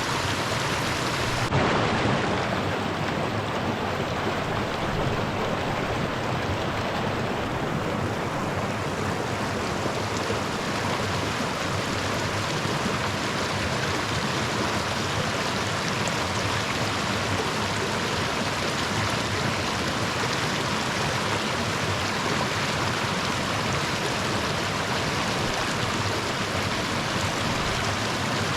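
Creek water rushing steadily, with a short jump in level about a second and a half in.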